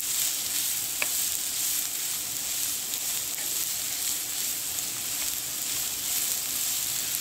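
Shredded imitation crab and sliced onion sizzling steadily in a frying pan while a wooden spatula stirs them, with one sharp tap of the spatula on the pan about a second in.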